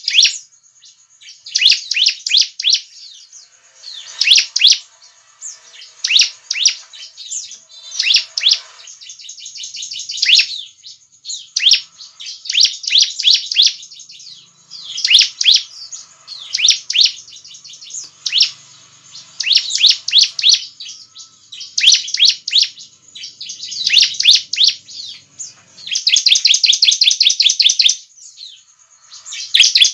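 Bar-winged prinia (ciblek) singing: loud bursts of rapid, high chirping notes, one phrase every second or two, with a longer unbroken fast trill near the end.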